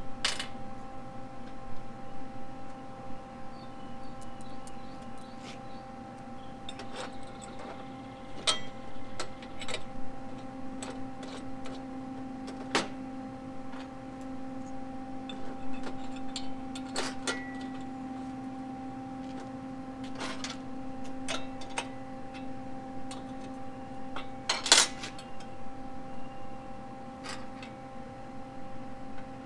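Steel parts handled on a steel welding table: square-tube arms and an angle bracket clink and knock now and then as an arm is set into the bracket and lined up, with the sharpest knock about 25 seconds in. A steady hum of a few fixed tones runs underneath.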